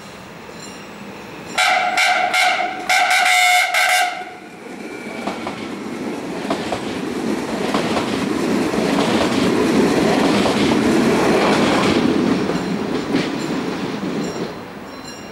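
Siemens Desiro class 460 electric multiple unit sounding two horn blasts, then passing by: rumble and wheel clatter on the rails swell to a peak and fade away.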